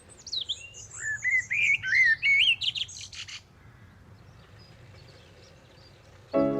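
A songbird singing a burst of quick, sliding whistled notes for about three seconds, ending in a few rapid clicking notes, then faint low background hum. Music begins just before the end.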